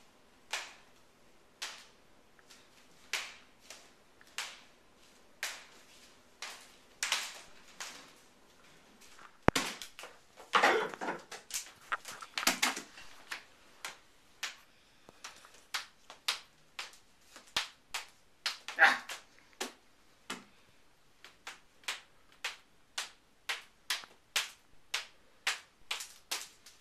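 Devil sticks being juggled: the two hand sticks tap the centre stick in a long run of sharp wooden knocks, spaced unevenly at first and quickening to about two a second in the second half, with a few louder knocks along the way.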